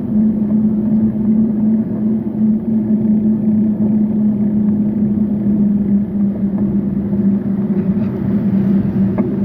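Steady drone with a constant hum and a rumble of road and wind noise while riding along a road, with a faint tick near the end.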